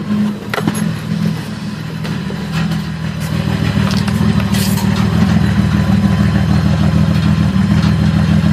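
Ranger's engine running with a straight pipe and the catalytic converters removed: a loud, raw exhaust note that gets louder over the first few seconds and then holds steady, with a few light clicks.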